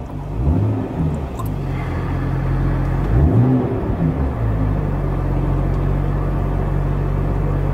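BMW 1 Series M's twin-turbo straight-six engine running under way, the revs climbing and dropping back twice, then holding steady.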